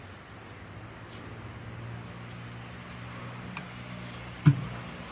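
A single sharp hammer blow on metal near the end, over a steady low hum.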